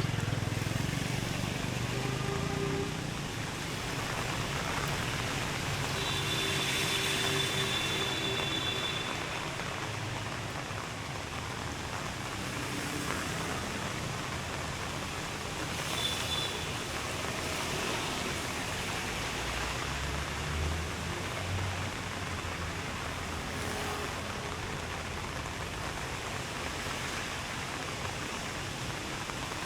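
Steady hiss of rain and traffic on wet roads, with vehicles passing; a low engine rumble goes by about two-thirds of the way in.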